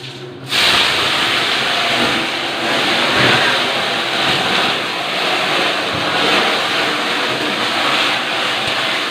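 Gas burner lit and burning with a steady, loud hiss that starts suddenly about half a second in.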